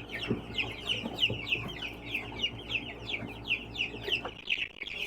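A flock of young chickens peeping, many short falling chirps overlapping, several a second, over a faint steady low hum.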